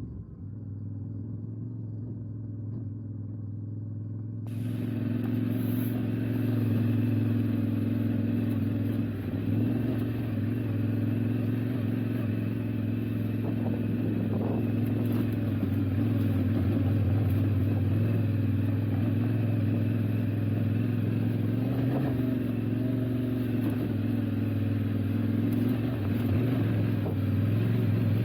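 Yamaha Ténéré 700's parallel-twin engine running steadily under load on a hill climb, getting louder about four seconds in.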